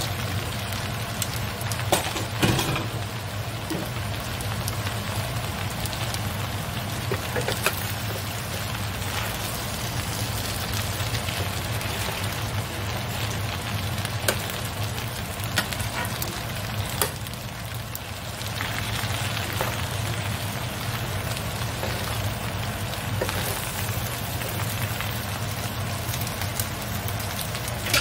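Napa cabbage and mung bean noodles sizzling steadily in a square copper-coloured frying pan, with an occasional sharp clack of a metal spoon against the pan as they are stirred. A steady low hum runs underneath.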